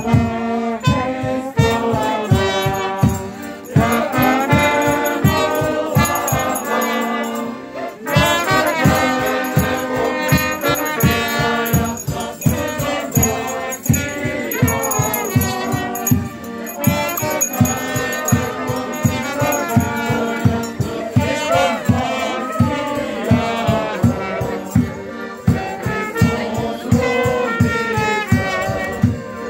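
A group singing a Ukrainian folk New Year song, with a drum beating about three times a second and jingle bells or rattles shaking along. There is a short break about eight seconds in.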